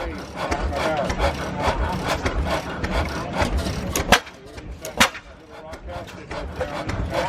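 Antique hit-and-miss stationary engine running, a dense low chuffing with two sharp pops about four and five seconds in.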